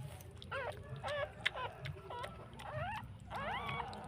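Newborn puppies crying: a rapid string of short, high squeals, each rising in pitch, that overlap one another.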